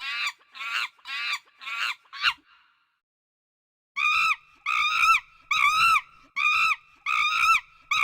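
A large bird honking: a quick run of five calls, then, after a pause of about a second and a half, a steady series of six evenly spaced calls a little under a second apart.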